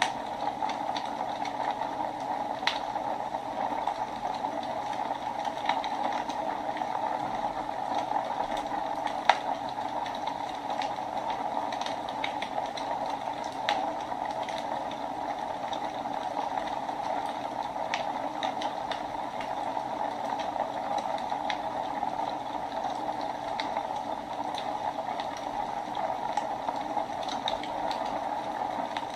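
Wood fire burning in a fireplace: a steady hiss with scattered crackles and pops, one sharper pop about nine seconds in.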